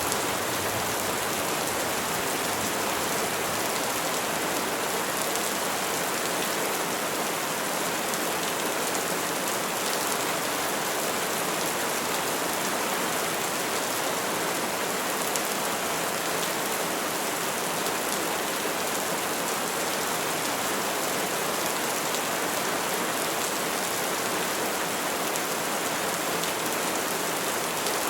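Steady rain falling on trees and foliage: an even hiss of many small drop patters, without thunder.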